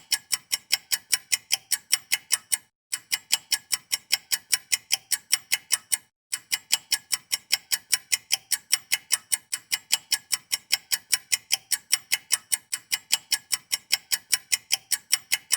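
Clock-ticking sound effect over a fast-forward section: a steady, quick ticking, about four to five ticks a second, with two brief breaks.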